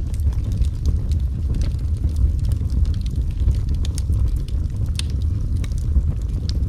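Wood fire crackling in a fireplace: a steady low rumble of burning logs with frequent sharp pops and snaps at irregular intervals, a couple of louder pops about five seconds in and near the end.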